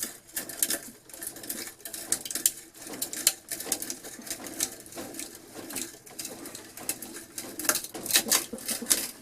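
Vintage auger bit in a hand drill turned and pressed against wood, scraping and clicking irregularly without biting in: the lead screw at the tip is not pulling the bit into the wood, which the owner puts down to the screw on the tip.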